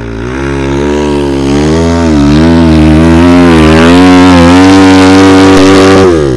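Motorcycle engine revving hard in second gear on a snowy climb, its pitch wavering up and down as the rear wheel struggles for grip, then dropping away suddenly near the end.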